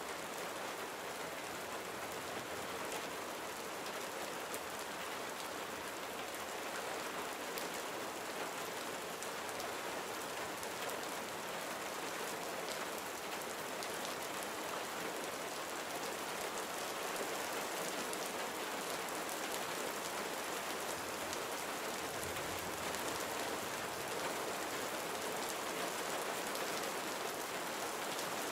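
Gentle rain falling steadily: an even hiss of rainfall with scattered individual drops ticking through it.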